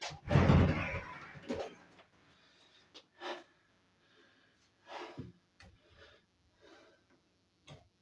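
A heavy thump near the start, then a few scattered light knocks and handling rustles while a new washing machine is being fitted.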